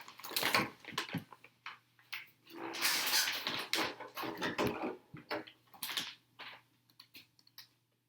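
Plastic parts bag crinkling and rustling in several bursts as it is opened and emptied, followed by a few light clicks of small hardware near the end.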